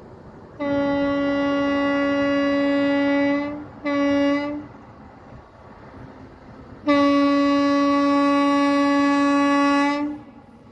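Train horn sounding three blasts on a single steady note: a long blast of about three seconds, a short one, and after a pause a second long blast of about three seconds.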